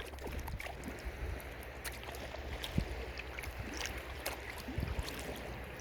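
Water splashing and dripping around a kayak as it is paddled: a steady wash of moving water with many small scattered splashes and drips, over a low rumble.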